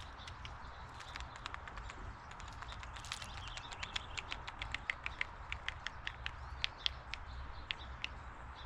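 Birds pecking at seed: light irregular taps and clicks, coming several a second and quickest in the middle, over a steady low rumble.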